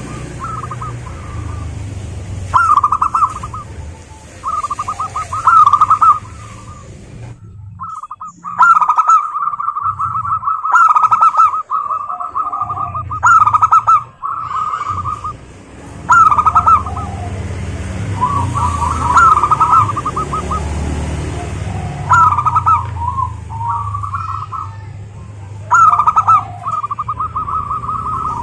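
Zebra dove (perkutut) cooing: its rolling, trilled coo phrases repeat again and again, with a short pause about seven seconds in.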